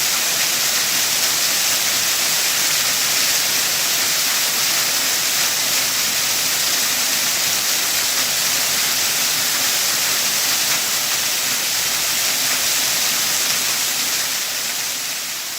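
Waterfall rushing steadily, a dense even hiss of falling water that starts fading out near the end.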